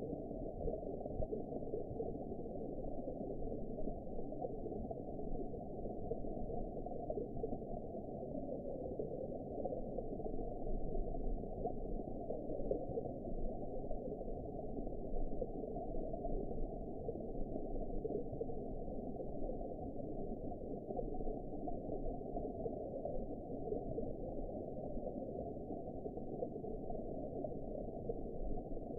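Underwater ambience: a steady, muffled rush and rumble of water, dull with nothing high in it, swelling and easing slightly without any distinct events.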